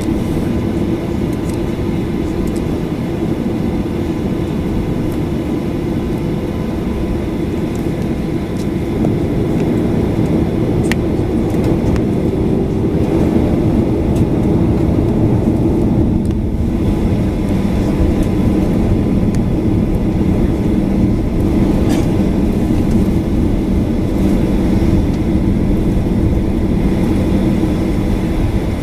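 Boeing 737-800 cabin noise with its CFM56-7B engines running at low power, a steady hum and rush that grows a little louder from about ten seconds in.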